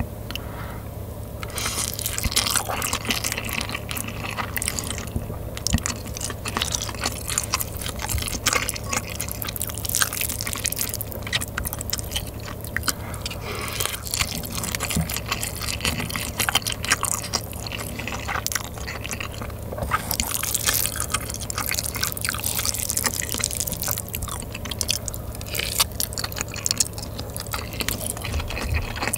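Close-miked wet eating sounds: moist, clicky chewing and mouth sounds of rice mixed in spicy sauce, eaten by the spoonful, with no pauses.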